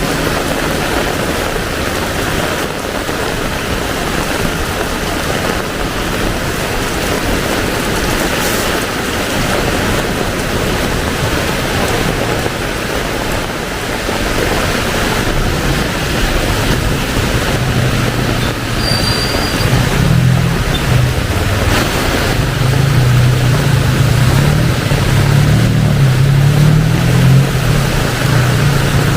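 Heavy rain pouring steadily, with a motor vehicle's engine hum coming in about halfway through and growing louder toward the end.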